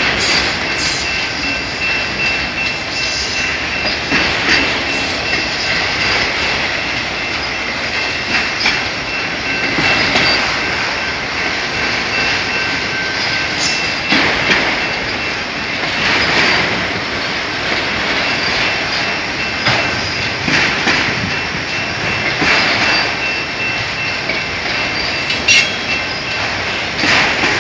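Freight train of autorack car-carrier cars rolling past, a steady rumble and rattle, with wheel clacks over rail joints every couple of seconds and a faint thin high whine.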